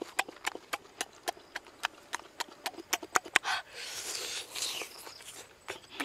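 Close-up mouth sounds of a person eating grilled intestine dipped in chili sauce: wet chewing and lip-smacking clicks several times a second, with a brief hiss a little past halfway.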